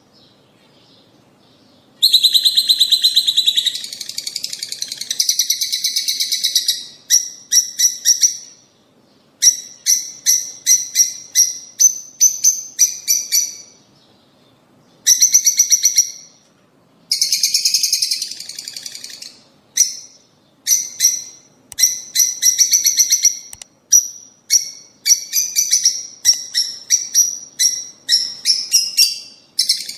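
Peach-faced and Fischer's lovebirds calling: shrill, rapid chirps in dense bursts and quick runs, separated by short pauses, starting about two seconds in.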